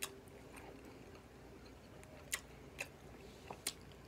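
Quiet chewing of a chicken nugget, with about five short, sharp clicks: one at the start and a cluster of four in the second half.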